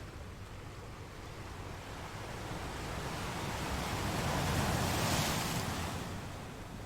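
Sea waves breaking on rocks: a steady wash of surf that swells to one louder crash about five seconds in, then falls back.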